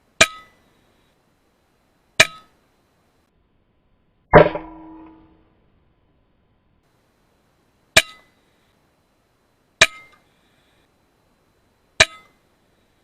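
A series of sharp metallic clangs, each with a brief ring, six in all at intervals of roughly two seconds. The heavier one, about four seconds in, rings out longer.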